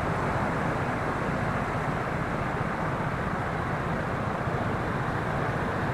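Steady wind and road noise from a KYMCO Racing S 150 scooter ridden along, picked up by a mounted action camera.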